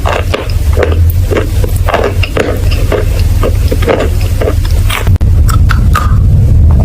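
Close-miked crunching: many small, irregular crackles from a material being squeezed or broken up, over a steady low rumble.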